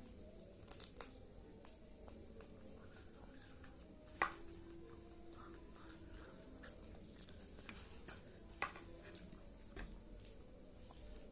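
Quiet chewing and eating of chicken and rice, with a few sharp clicks or taps, the loudest about four seconds in.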